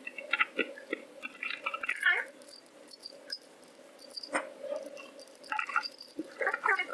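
Screwdriver prying at a 2.5-inch hard drive's stuck back plate: bursts of short squeaks and scrapes as the tip works along the edge, with a few sharp clicks, the loudest about halfway through.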